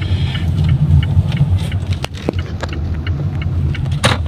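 Car driving, a steady low road and engine rumble heard from inside the cabin, with a few scattered clicks and one sharper knock near the end.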